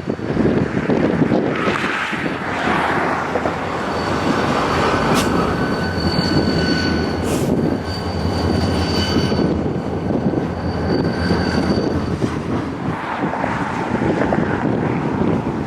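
Freight train rolling past, steel wheels on rail making a steady rush. Thin, high, steady wheel-squeal tones run from about four seconds in to about twelve seconds in.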